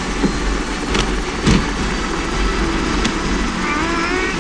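Helicopter running with a steady low rotor and engine noise. About a second in there are two sharp cracks half a second apart, the second louder.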